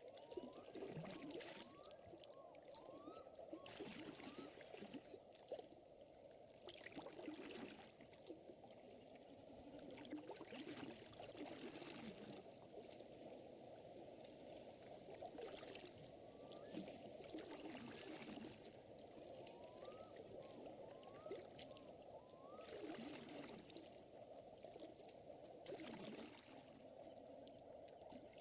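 Faint lake water lapping and trickling steadily, with small groups of three or four short rising chirps now and then.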